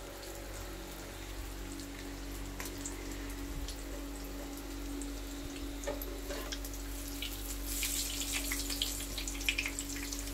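Breaded chicken schnitzel shallow-frying in hot oil in a pan, a steady sizzle with scattered pops and crackles. The crackling grows busier near the end as tongs grip and move the schnitzel.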